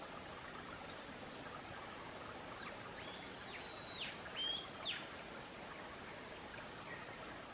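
Steady outdoor background hiss with a bird calling a short run of high whistled notes, some dropping sharply in pitch, between about three and five seconds in.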